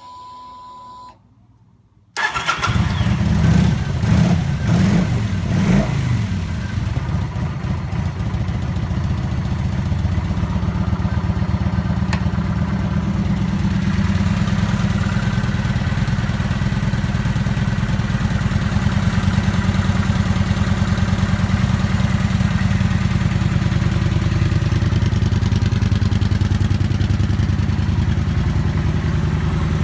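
A short steady beep, then a Kawasaki VN900 Vulcan's V-twin engine starts about two seconds in. It is revved a few times and then settles to a steady idle.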